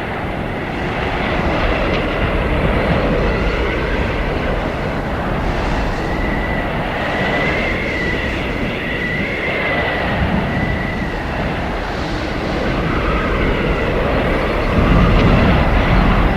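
Arctic blizzard wind howling: a steady rushing roar with a high whistling tone that wavers up and down, and a deeper gust swelling louder near the end.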